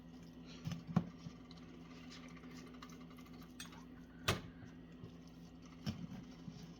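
Quiet kitchen handling while a fish is being stuffed with seasoning: three or four light knocks, about a second in, past the middle and near the end, over a steady low hum.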